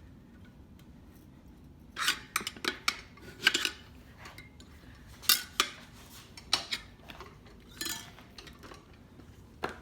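Metal tire spoons clinking and scraping against a dirt bike's wheel rim as the tire is levered off, in scattered sharp clanks that begin about two seconds in.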